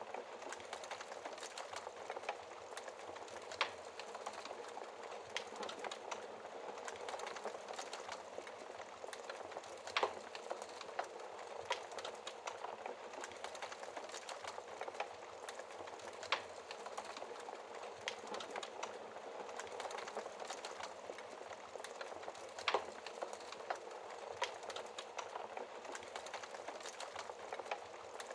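Wood fire crackling steadily, with a dense patter of small crackles and a sharp pop every few seconds, a few of them louder.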